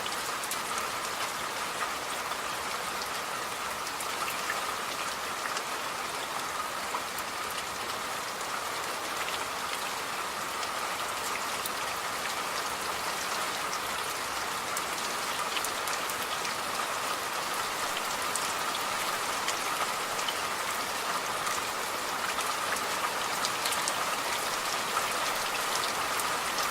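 Steady rain falling, with many small drop ticks over a constant patter.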